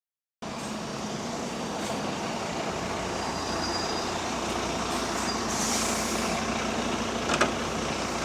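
Diesel bus engine running steadily, with a short burst of air hiss about two-thirds of the way through and a sharp click near the end.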